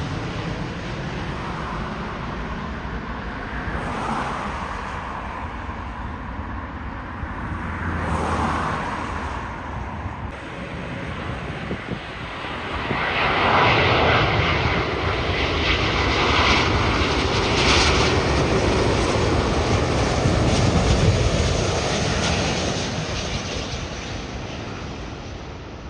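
Jet airliner's engines passing close by: a steady rush of engine noise that swells from about halfway in, carrying a high whine, then fades near the end.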